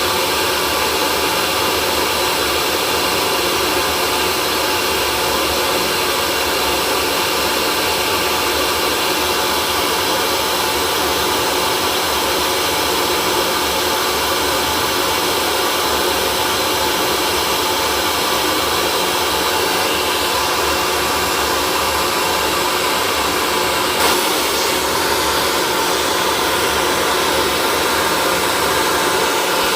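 Hair dryer running steadily: a continuous rush of blown air over a constant motor whine, with one faint click about three quarters of the way through.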